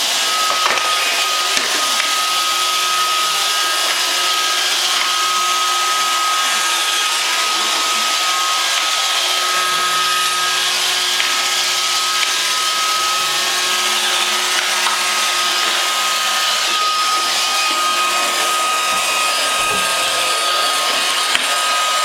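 iRobot Roomba robot vacuum running: a steady whirring hiss with a thin high whine, and a few light clicks now and then.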